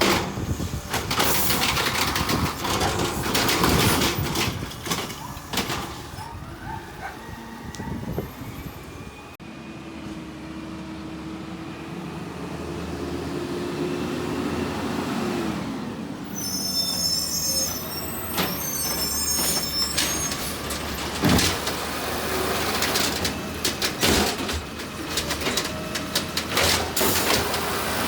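Garbage truck running and working, with a steady whine lasting several seconds near the middle, followed by high squeals.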